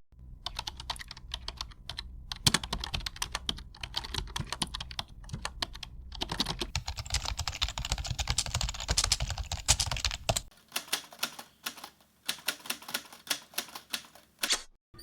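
Fast typing on a computer keyboard: a dense run of clicking keystrokes over a low hum. The hum stops about ten seconds in, and the keystrokes carry on more sparsely.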